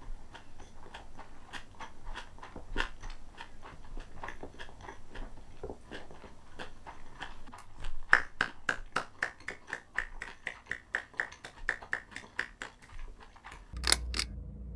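Close-up mouth sounds of someone chewing a mouthful of kimbap with rice cake inside: a steady run of chewing clicks, quicker and louder in the second half. A sharp click near the end.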